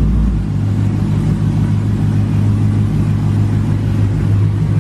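2015 Chevrolet Camaro SS's 6.2-litre V8 idling steadily.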